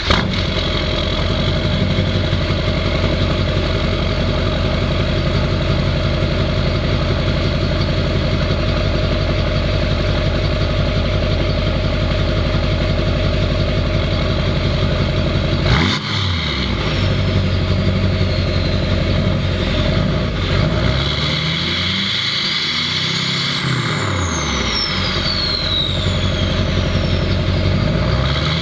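2005 Chevy 2500HD Duramax V8 turbo-diesel with a 4-inch straight pipe idling loudly, with a steady high turbo whistle from the variable-vane turbo, whose vanes the tune holds open at idle. From about halfway on, the engine is revved several times, its note rising and falling, while the whistle glides down in pitch as the turbo spools down after each rev.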